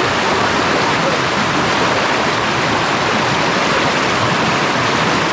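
Fast river water rushing steadily, a loud even sound of flowing water with no breaks.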